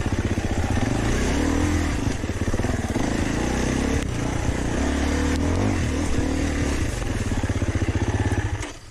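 Four-stroke single-cylinder dirt bike engine running and revved up and down a few times, then cutting out abruptly near the end.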